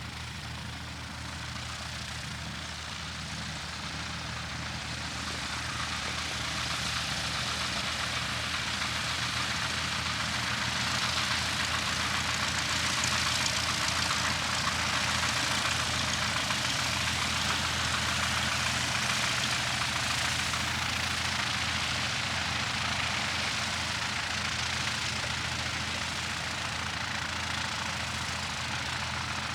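Light airplane's piston engine running with a steady low drone, while a rushing hiss builds to its loudest about halfway through and then eases off as it passes.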